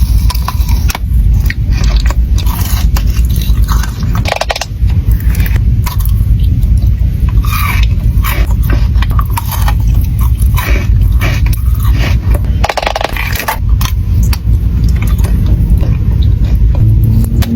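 Close-miked chewing and crunching of Dubai chocolate, with irregular crackles and crunches and a loud, close low rumble from the mouth.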